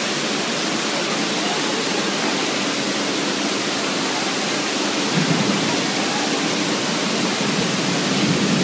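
Heavy tropical downpour: a steady hiss of rain and running floodwater, with a lower, rougher noise added from about five seconds in.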